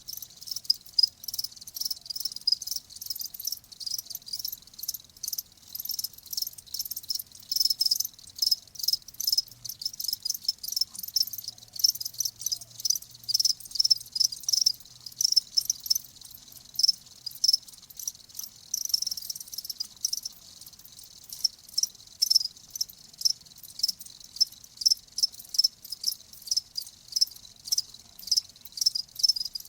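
Crickets chirping: short, high-pitched chirps repeating a few times a second without a break.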